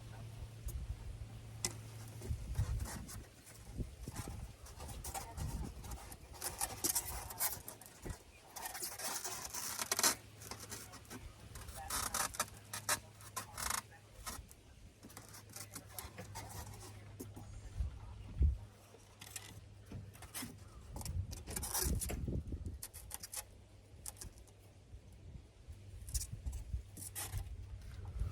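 Irregular rustling, scraping and clicks of materials being handled and worked by hand, in uneven bursts, over a steady low hum.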